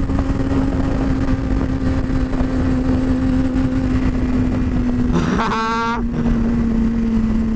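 2006 Honda CBR600RR's inline-four engine running at a steady cruise, its pitch sinking slowly, with wind rushing over the microphone. About five seconds in comes a brief, wavering higher-pitched sound lasting under a second.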